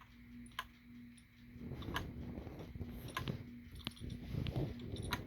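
Laptop making sharp, irregular clicks, about one a second, over a faint steady low hum. A low rumbling noise joins in from about a second and a half in.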